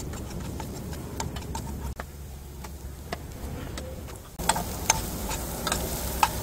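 Minced garlic sizzling in oil in a nonstick frying pan, with a spoon ticking and scraping against the pan as it is stirred. About four seconds in the sizzle grows louder as chopped green onion is scraped in off a cutting board with a knife, and sharper clicks of utensils on the pan follow.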